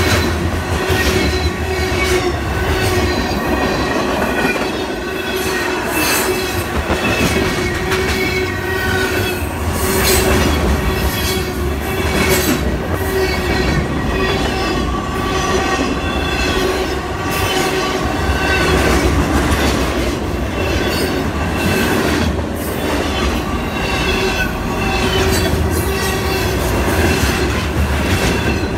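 Freight cars of a mixed freight train rolling past at close range: steel wheels clicking and clanking over the rail joints, with a steady rumble. High held tones ride over it, the squeal of wheel flanges against the rail.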